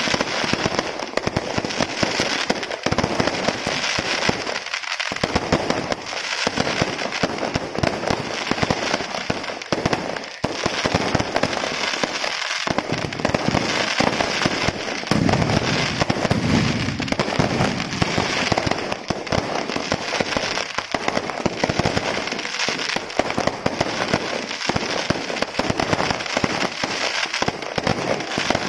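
Aerial fireworks bursting overhead in a dense, unbroken barrage of crackling and popping.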